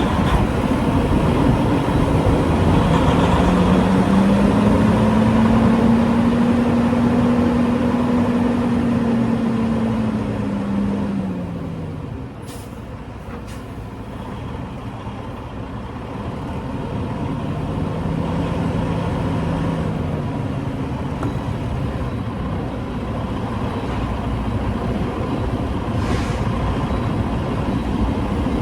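Semi truck's diesel engine and road noise heard from inside the cab. The engine pitch climbs over several seconds, then falls and the noise eases off about twelve seconds in, and it climbs and falls again a little later.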